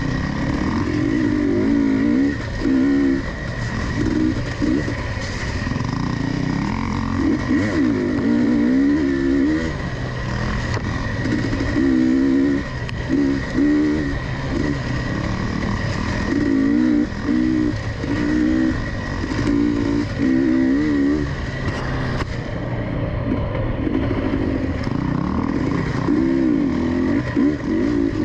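2022 GasGas EC250 two-stroke enduro engine revving up and down over and over as the throttle is rolled on and off along a tight trail, with a steady high whine underneath.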